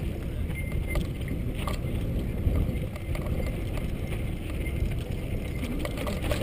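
Mountain bike rolling over a rough, rocky dirt trail, the bike rattling with scattered sharp clicks and knocks, over a heavy low rumble of wind and ground noise on the camera microphone.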